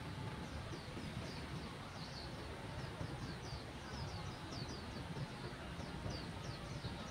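Birds chirping in the park trees: a continuous run of short, quick, high downward-sliding notes, several a second, over a steady low background rumble.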